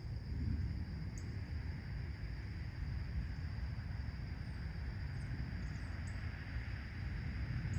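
Outdoor morning ambience: a steady low rumble like distant traffic under a steady high hum, with a few short, faint, high bird chirps scattered through it.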